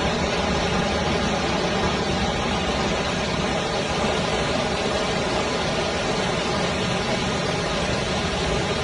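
A car engine running steadily under a constant noisy hiss, with no breaks or changes.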